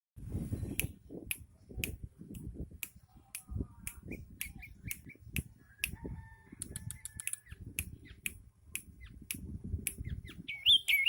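A caged sooty-headed bulbul (kutilang): sharp clicks about twice a second over a low rumble, a few faint whistled notes, and a loud short chirping phrase near the end.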